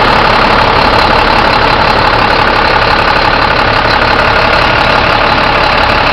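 A 2005 International 4300 box truck's diesel engine idling: a loud, steady running sound that cuts off suddenly at the end.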